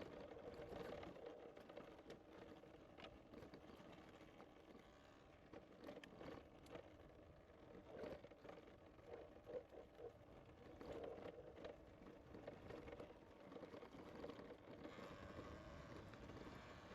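Faint noise of a bicycle being ridden on a trail: steady tyre noise with scattered clicks and rattles.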